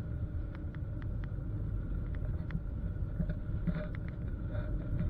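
Car road noise heard from inside the cabin while driving: a steady low rumble, with scattered sharp ticks at irregular intervals.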